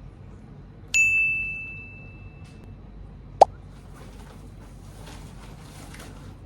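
A single bright, bell-like ding about a second in that rings and fades over nearly two seconds, then a short, sharp pop a couple of seconds later.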